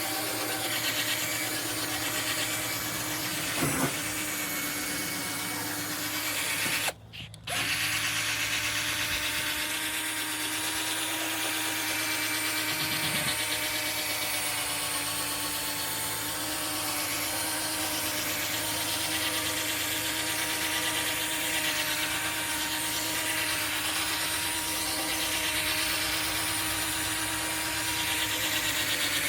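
Power drill running steadily with a wet 800-grit sanding disc against a plastic headlight lens: an even motor tone under the hiss of the abrasive. It cuts out briefly about seven seconds in, then carries on.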